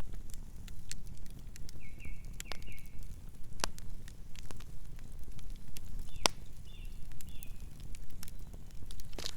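Campfire burning, with a steady low rumble and frequent sharp crackles and pops of wood; a couple of the pops are much louder than the rest, one past the middle and one near the end. Brief high chirping tones come twice, a couple of seconds in and again after about six and a half seconds.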